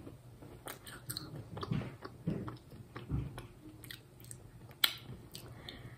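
Close mouth sounds of a sugar-coated jelly sweet being chewed: soft wet smacks and small clicks, with one sharper click about five seconds in.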